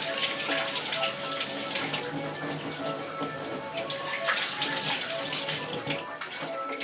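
Tap water running and splashing as a hand-crank coffee grinder part is rinsed under it; the flow stops about six seconds in.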